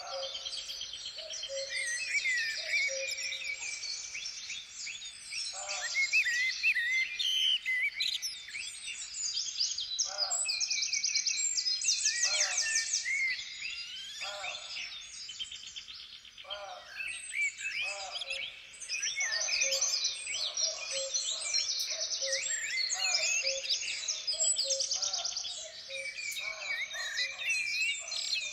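A dense chorus of many songbirds chirping, trilling and singing over one another, with no letup.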